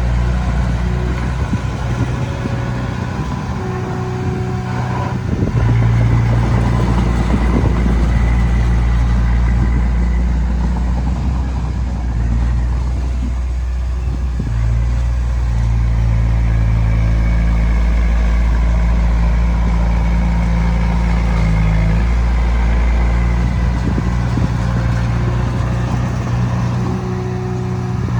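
Komatsu D20P bulldozer's diesel engine running under load, its note shifting up and down several times as it works.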